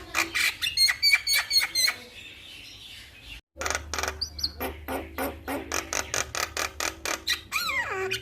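Male Javan myna (jalak kebo) singing: a fast run of sharp chattering notes, then after a brief break about three and a half seconds in, another quick string of clicks ending in a falling whistled glide.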